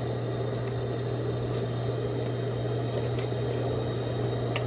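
Steady low machine hum with a few faint, sharp clicks as a burnt, fused-shut HVAC contactor is worked loose from its mount by hand.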